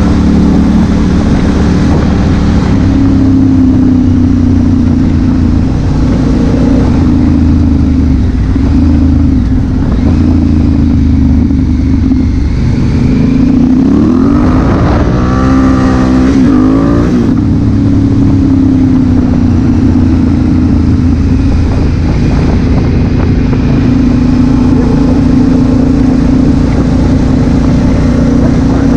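Honda Africa Twin CRF1000L's parallel-twin engine running at steady road speed. About halfway through, the engine revs up and down for a few seconds, with the pitch climbing and falling through several glides, then settles back to a steady pitch.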